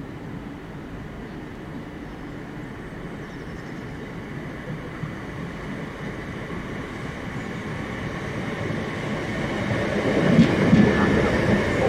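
A train approaching, its rumble growing steadily louder until it comes close about ten seconds in, with wheel noise and clicks over the rails.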